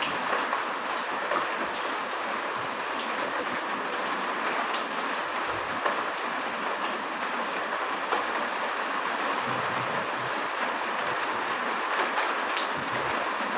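Heavy rain falling steadily, an even hiss with scattered sharp drip ticks.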